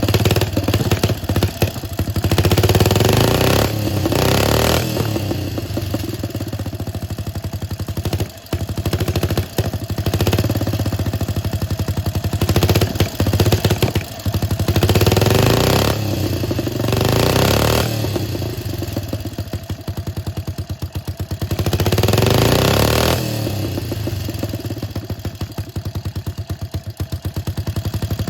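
Old D45S motorcycle engine running, blipped up in revs several times and dropping back to a steady idle between.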